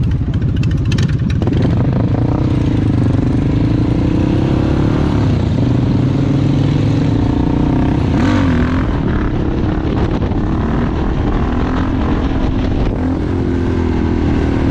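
Harley-Davidson Dyna V-twin motorcycle engine running under way, its pitch rising and then dropping several times as it accelerates and shifts gears.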